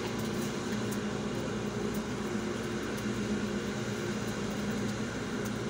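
A parked vehicle's engine idling, heard from inside the cabin as a steady low hum of constant pitch.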